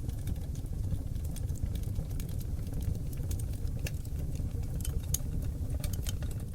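Seasoned oak logs burning in a fireplace: a steady low rumble of flame under many sharp crackles and pops, most frequent about four to six seconds in.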